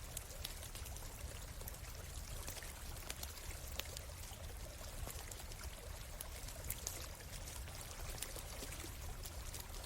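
A stream running steadily, with scattered sharp crackles and pops from a wood campfire.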